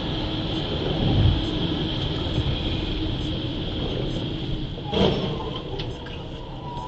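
Steady vehicle running noise with a constant high whine, a low swell about a second in, and a single sharp knock about five seconds in.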